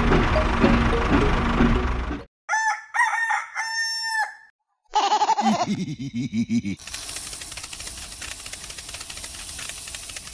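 Rooster crowing, two drawn-out calls about two and a half seconds in. Before it, a loud steady sound cuts off suddenly. A steady hiss fills the last few seconds.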